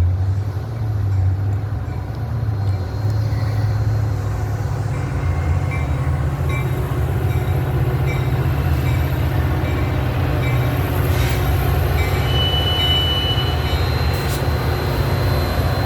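Metra diesel commuter train pulling into the station: a steady low rumble of the locomotive and rolling cars, with a brief high squeal about twelve seconds in.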